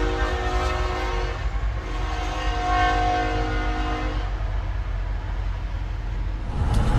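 Locomotive horn sounding a steady chord of several notes, cutting off about four seconds in, over the low rumble of a train. The rumble grows louder near the end.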